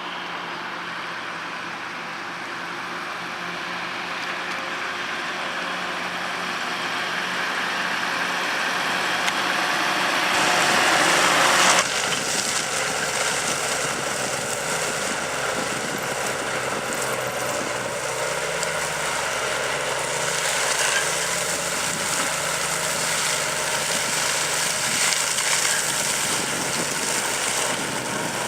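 Tractor engine running steadily, growing louder over the first dozen seconds. The sound changes abruptly about twelve seconds in, then holds steady.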